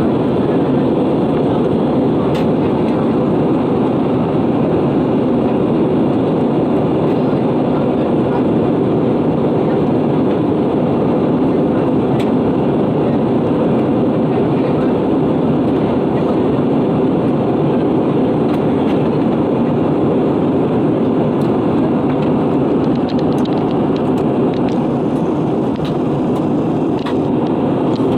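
Steady cabin noise inside an Airbus A320-232 in flight: an even roar of engines and rushing air, with a few faint clicks near the end.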